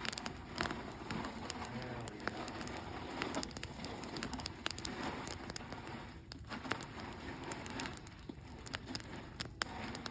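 Campfire crackling, with irregular sharp pops and snaps over a constant low hiss.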